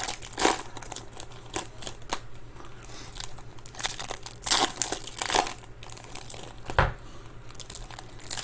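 Foil trading-card pack wrappers being torn open and crinkled in repeated short rustles, with a single knock on the table about seven seconds in.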